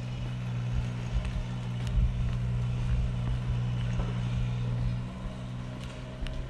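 Steady low hum of a running motor, with an uneven low rumble underneath.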